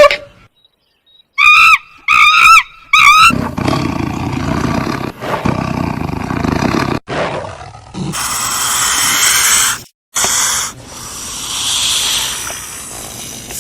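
Animal calls: three short, high, wavering cries about two seconds in, then long, rough, noisy calls in several stretches broken by short pauses.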